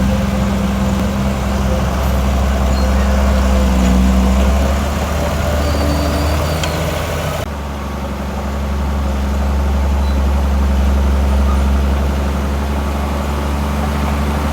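Heavy diesel construction machinery running steadily with a deep engine hum; the sound changes abruptly about seven seconds in.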